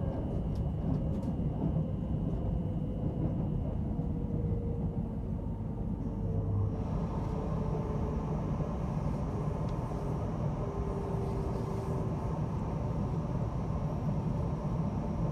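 Train running noise heard from inside the carriage: a steady low rumble of wheels on the rails. A faint whine slowly falls in pitch, and a higher hiss grows louder about seven seconds in.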